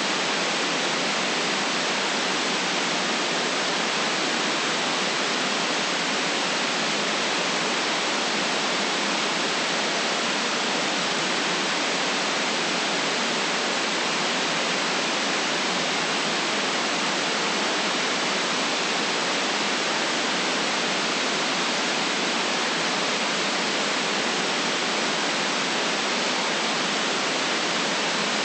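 Steady synthetic white noise: an even, unchanging hiss with no low rumble.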